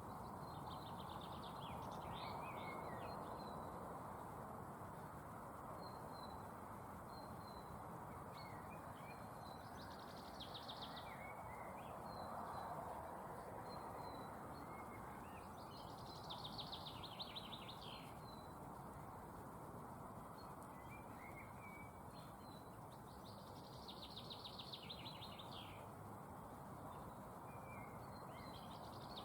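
Woodland songbirds singing: one bird repeats a fast trilling song phrase about every six or seven seconds, with other short thin calls and chirps between, over a faint steady rushing background.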